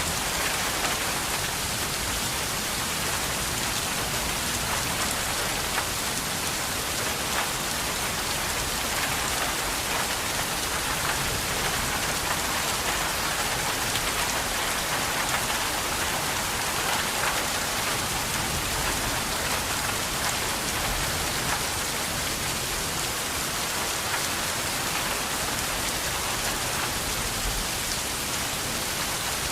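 Steady rainfall: an even hiss of rain with scattered drops ticking through it.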